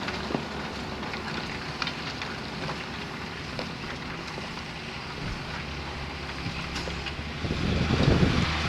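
Tractor engine working steadily under load while ploughing, growing louder about three-quarters of the way through.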